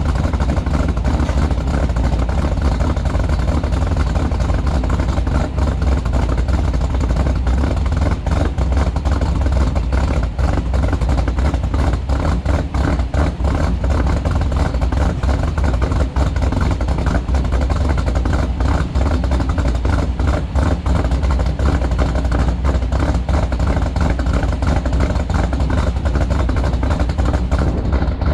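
Built Ford 302 small-block V8 with Holley Sniper EFI and a Trick Flow stage 4 cam, idling steadily through Dynomax Race Bullet mufflers shortly after a cold start.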